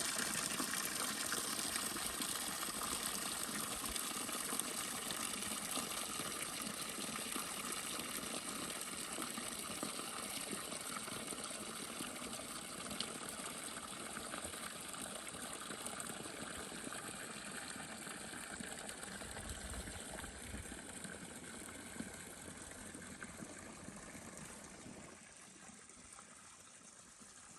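Steady rushing noise of flowing water, slowly fading and dropping off about 25 seconds in.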